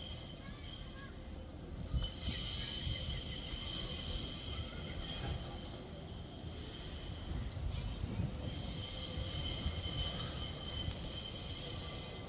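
Pacer diesel railbus pulling away with a low engine and wheel rumble, and a high steady wheel squeal that comes and goes as it takes the curve. Short falling bird chirps sound over it.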